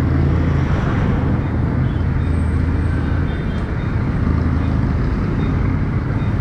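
Motorcycle engine running steadily, with a wash of wind and road noise.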